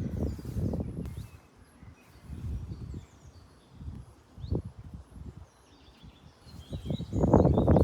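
Small birds chirping faintly over irregular low rumbling gusts on the microphone, which grow much louder near the end.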